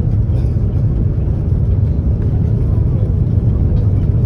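Steady low rumble inside the cabin of an Airbus A330-300 airliner in flight: engine and airflow noise.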